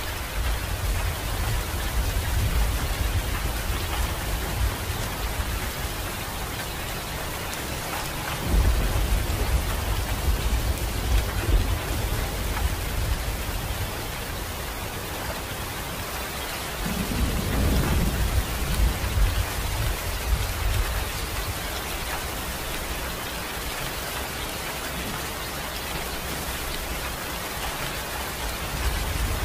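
Steady rain with rolling thunder: low rumbles swell in about eight seconds in and again, louder, around seventeen seconds.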